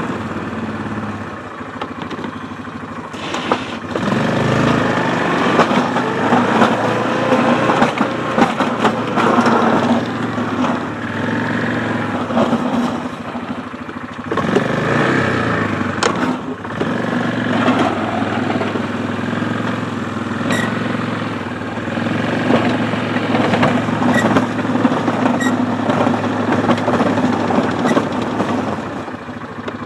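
ATV engine running under changing load while plowing slush, its pitch rising and falling several times as the throttle and load change.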